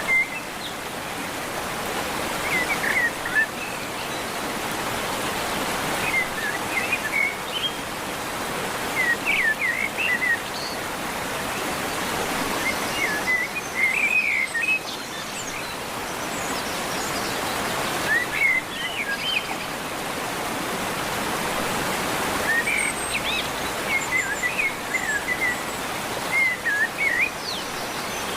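Birds singing short chirping phrases every few seconds over a steady rushing background noise.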